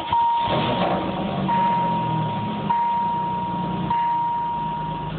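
The 3.4 L V6 of a 1994 Chevrolet Camaro catches right at the start and settles into a steady idle, which the owner likens to an aftermarket camshaft. Under it a steady electronic warning chime sounds, with short breaks about every second, and stops near the end.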